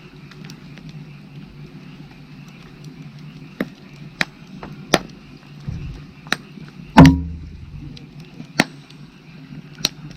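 Firewood burning, crackling with scattered sharp pops, and one much louder pop with a thud about seven seconds in.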